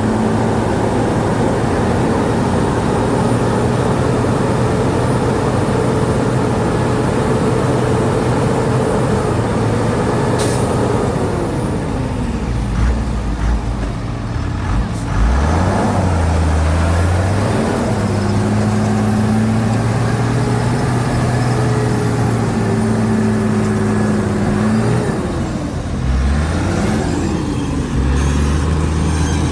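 Heavy diesel engine running steadily, its pitch sagging and recovering twice, around the middle and near the end, as load comes on and off. One sharp click about a third of the way in.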